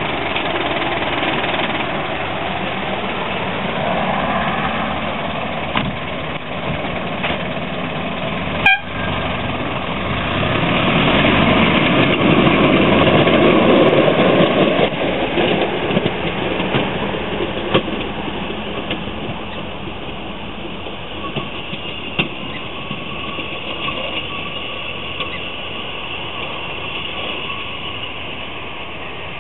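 Freight train rolling past, a steady rumble of wheels on rail that grows louder about halfway through and then slowly fades, with a few sharp clanks, the loudest a little under a third of the way in.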